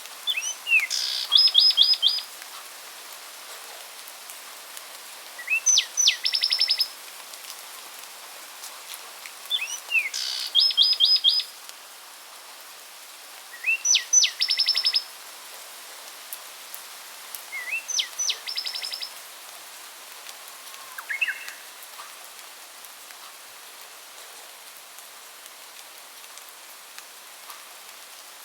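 A songbird sings the same short phrase five times, about every four seconds. Each phrase is a quick rising note followed by a fast run of four to six sharp, high repeated notes. The song sits over a steady hiss of rain, and after about twenty seconds only one brief call more is heard, then the hiss alone.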